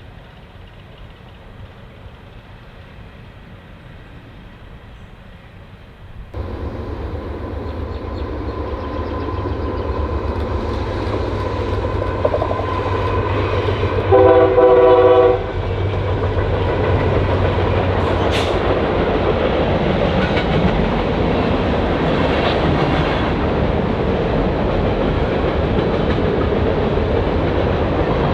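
A train approaching and passing: a sudden rise in rumble about six seconds in builds steadily, then the locomotive's multi-chime air horn sounds one short blast of about a second near the middle. After the horn comes the steady rolling rumble and clickety-clack of cars going by.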